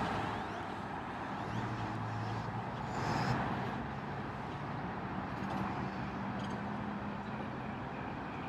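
Outdoor ambience of distant road traffic: a steady hiss and rumble with a low hum, swelling briefly about three seconds in.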